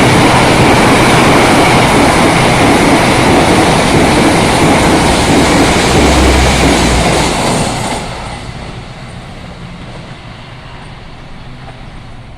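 A train passing at speed: a loud, steady rush of wheels on rail that drops away suddenly about eight seconds in as the last car goes by.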